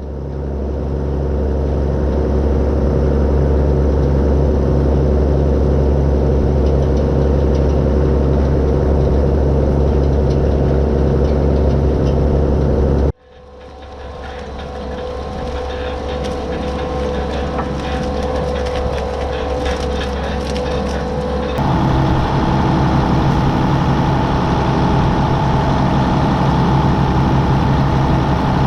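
John Deere 6910 tractor's six-cylinder diesel engine running steadily under load while pulling a subsoiler. The sound cuts off abruptly about 13 seconds in and comes back, then shifts in tone about 21 seconds in.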